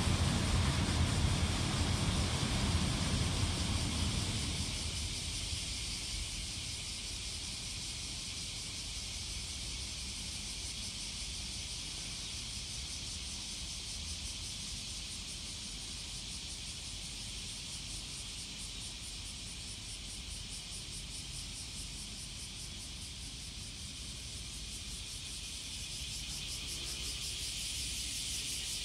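A Tokaido Shinkansen high-speed train passes on the viaduct with a low rumble that dies away over the first four or five seconds. After that only a steady high hiss remains.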